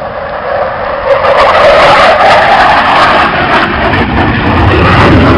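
Military jet aircraft flying past, a loud roar of jet noise that swells about a second in and holds, with a deeper rumble building near the end.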